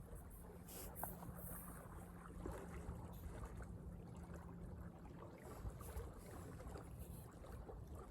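Faint lakeside wind and water noise, with no clear call or voice.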